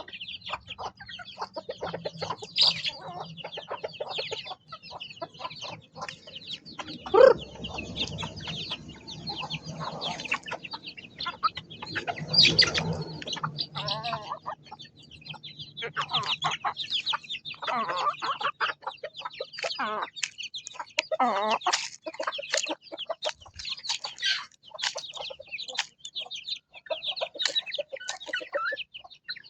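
Chickens clucking and calling, over a near-continuous run of short, high-pitched chirps.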